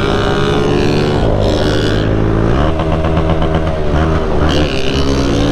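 Motorcycle engines running and revving, their exhaust note stepping up in pitch about halfway through.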